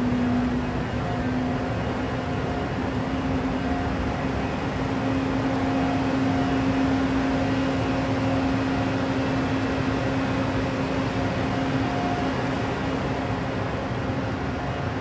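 Steady mechanical hum of a high-speed electric train standing at the platform, a constant low drone under an even rushing noise, with a fainter higher tone coming and going.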